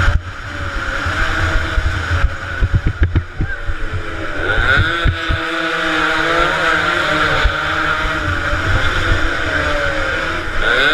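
Two-stroke motorcycle engines racing, revving up and down, with a sharp rise in revs about four seconds in and again near the end as bikes accelerate.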